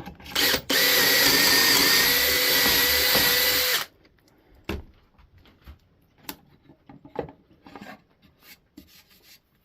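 Power drill boring a dowel hole into the edge of a wooden board through a dowel jig: a short blip of the trigger, then about three seconds of steady drilling that stops suddenly. A few light knocks and clicks of handling follow.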